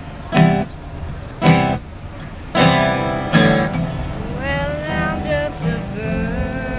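Blues music on acoustic guitar: separate strummed chords at first, then about four seconds in a sliding, wavering melody line comes in over the guitar.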